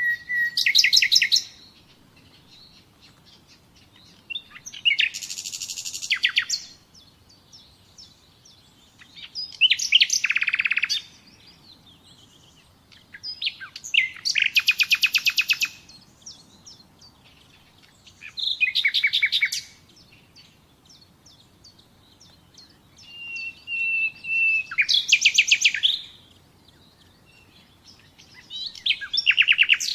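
A songbird singing a run of short phrases, one about every four to five seconds. Each phrase is a fast trill of repeated notes, and some open with a held whistled note.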